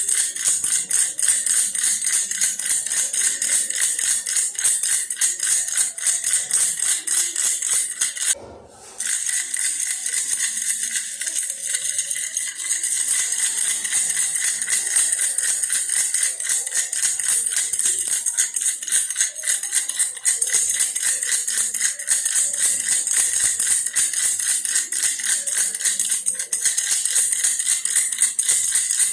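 Baby's toy bear rattle shaken rapidly and steadily, a dense bright rattling that stops for about half a second around eight seconds in.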